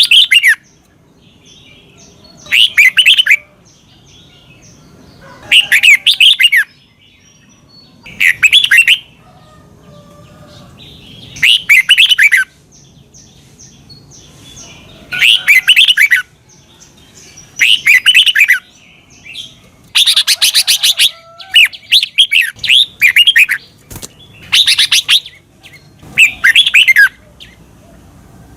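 Red-whiskered bulbul singing: loud, short phrases of several quick notes repeated every two to three seconds, with faint chirps in between; past the middle a few phrases come back to back.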